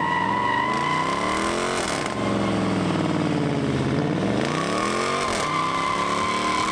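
A car engine revving hard in repeated climbs, its pitch rising, dropping sharply about two seconds in, then rising again, over a steady high-pitched tyre squeal from a burnout.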